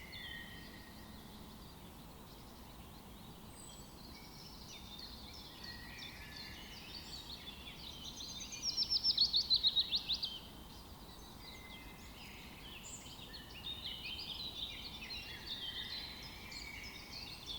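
Several songbirds chirping and singing together, with one loud, fast trill of repeated notes about halfway through that lasts under two seconds.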